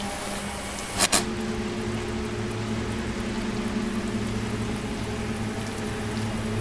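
A steady low hum, with a sharp double tap about a second in.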